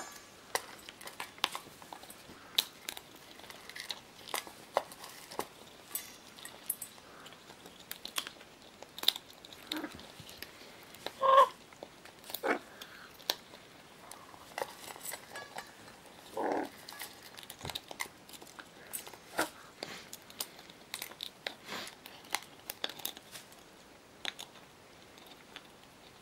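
Scarlet macaw chewing and biting, an irregular run of sharp crunches and cracks, with two short low calls around the middle.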